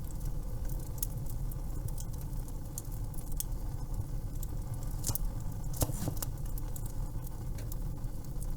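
Wood fire crackling in a fireplace: a steady low rumble with irregular sharp pops and snaps, a few louder ones just past the middle.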